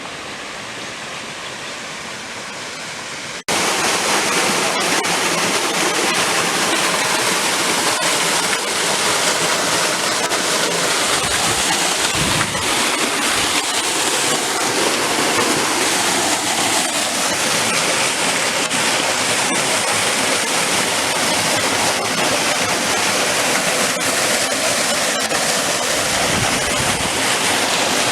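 Waterfall rushing: a steady, unbroken wash of falling water that jumps abruptly louder about three and a half seconds in.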